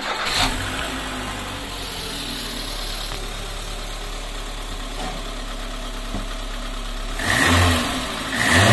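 VAZ 2110 car engine started and idling steadily, then revved up twice in the last couple of seconds. The engine is being run to check for vibration knocking through the body.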